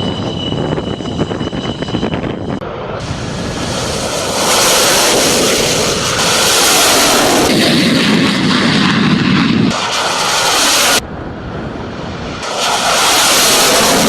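Military jet aircraft engines: a steady high whine over the first couple of seconds, then loud rushing jet noise. The noise cuts off and starts again abruptly a few times, as edited clips change.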